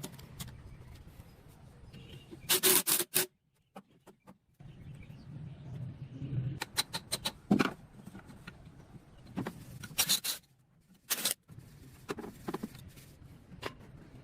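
Scattered metallic clicks, knocks and short scrapes of tool parts being handled and worked on, with a brief dead-silent break about three seconds in.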